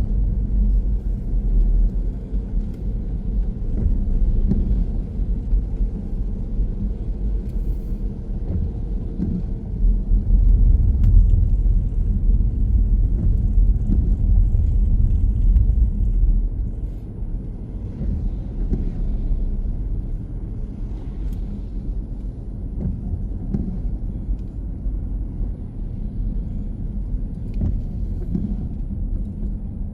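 A car driving, its low road and engine rumble steady throughout, louder for several seconds in the middle and then easing down after about halfway.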